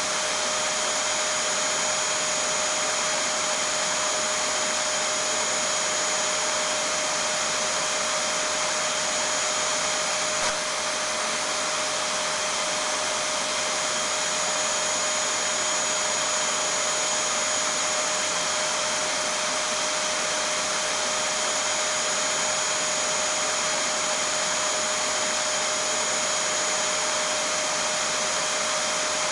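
Vacuum cleaner running steadily: a constant rushing motor-and-airflow noise with a steady high whine, unchanging in pitch and level.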